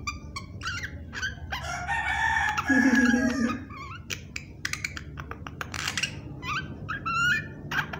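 A rooster crowing once, a call of about two seconds starting about a second and a half in. Around it come short sharp whistles, chirps and clicks from a myna.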